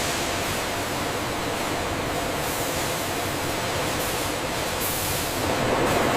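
Steady, loud hiss of spray or machinery noise, swelling slightly near the end.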